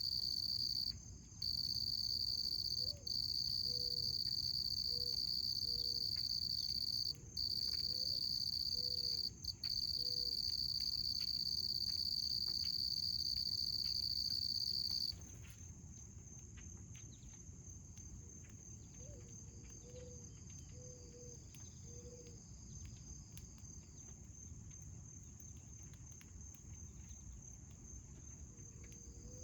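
An insect trilling steadily and loudly, high-pitched with a few short breaks, then stopping about halfway through and leaving a fainter trill. A soft low cooing call of several notes, the first rising, repeats a few times in the background.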